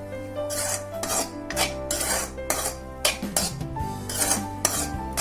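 A spoon scraping and clinking in a pan as a vegetable-and-egg sandwich filling is stirred, with background music underneath.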